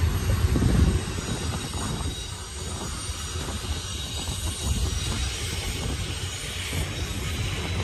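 Freight train cars rolling past in a steady low rumble with rattling, and a faint high squeal from the wheels on the rails.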